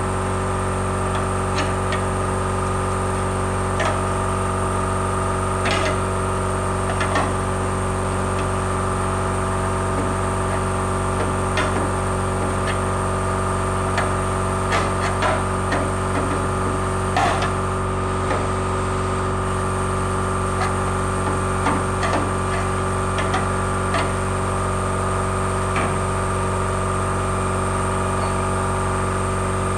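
Scattered light knocks and clicks of hand tools working on car-body sheet metal, over a steady mechanical hum with several fixed pitches.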